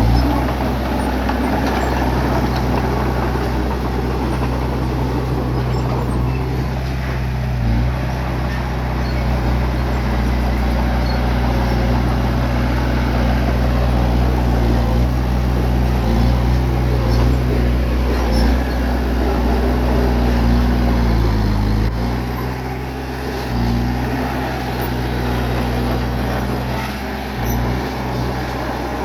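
Bulldozer's diesel engine running steadily as it pushes earth, a low drone that drops in level and pitch about three-quarters of the way through.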